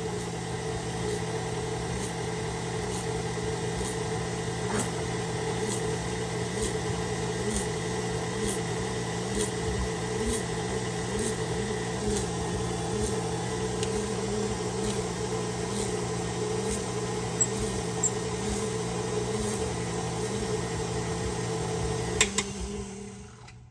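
KitchenAid stand mixer motor running steadily, driving the Spiralizer Plus attachment through a thin carrot, with a light regular tick about every 0.7 seconds. The motor is switched off near the end.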